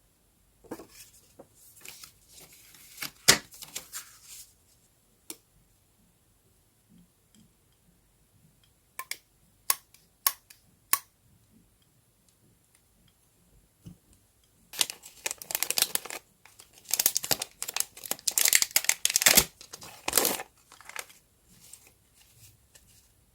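Paper being handled close up for journal decorating: crinkling and tearing in two spells, a short one near the start and a longer, louder one from about fifteen to twenty seconds in, with a few sharp taps in between.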